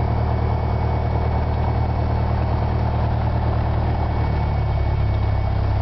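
Single-engine light plane's piston engine and propeller running with a steady drone, heard from inside the cabin; its pitch shifts slightly about four seconds in.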